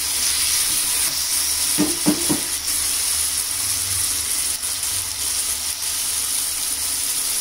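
Prawn and chayote masala sizzling steadily in an iron kadai, with three short clatters of the stirring spoon about two seconds in.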